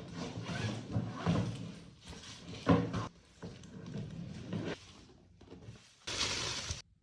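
Cabin crew bag being handled and opened: rustling and clunks, with one sharp knock about three seconds in. A short hissing rasp near the end stops abruptly.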